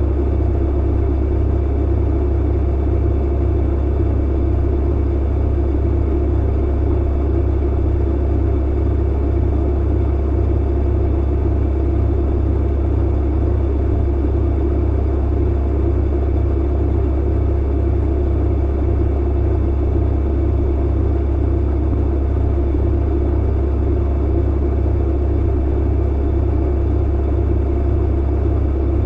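Clothes dryer running: a steady low hum and rumble that goes on without a break.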